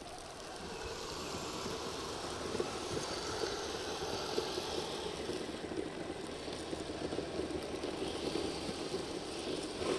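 Kyosho Blizzard RC snowcats' electric motors, gearboxes and rubber tracks running steadily, giving a rough, even mechanical buzz.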